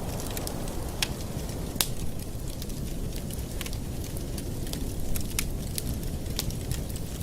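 Wood fire in a fireplace crackling: frequent sharp pops and snaps over a low, steady rushing sound.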